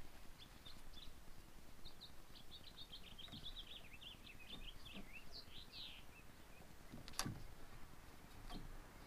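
A songbird singing a quick, twittering run of high notes for about six seconds. Light knocks of a cargo strap being worked against a car roof rack come through it, the sharpest about seven seconds in.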